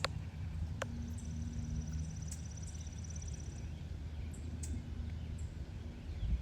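Outdoor garden ambience: a steady low rumble, with a rapid, high-pitched trill from about one second in that lasts two to three seconds, and scattered short, high chirps.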